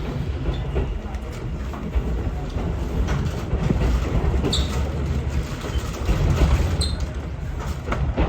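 Ichibata Electric Railway train running, a steady low rumble of wheels on rail heard from inside the car, with two brief high squeaks from the wheels or brakes partway through.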